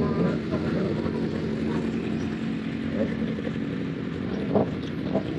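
Motorcycle engine running at a steady speed under an even rush of wind and road noise, with a steady hum for the first three seconds or so.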